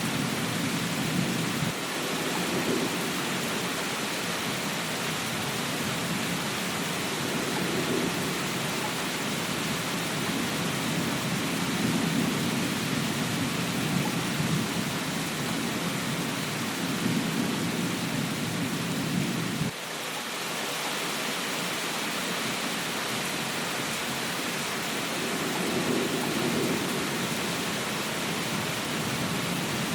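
Steady rain, with a low rumble that swells and fades several times, cuts off suddenly about two-thirds of the way through, and swells again near the end.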